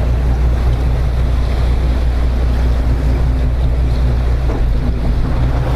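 Boat engine running steadily, a low drone with a few steady overtones, under water and wind noise on the microphone.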